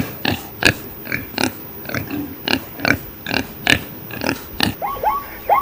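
Pig grunting in short, evenly repeated snorts, about three a second. Near the end, higher squeaky calls from another animal begin.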